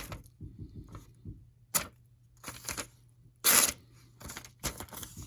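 Freshly sharpened knife blade slicing through thin phone book paper in a few short, papery strokes, the loudest about three and a half seconds in. The edge, polished through 4000 grit and stropped, glides through the paper.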